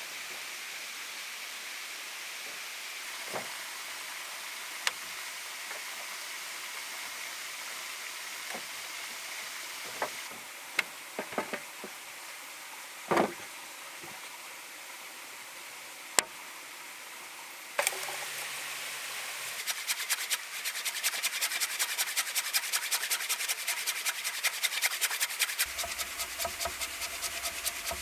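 Steady hiss with a few scattered knocks, one louder ringing knock midway. Near the end, rapid repeated scraping strokes from hand work.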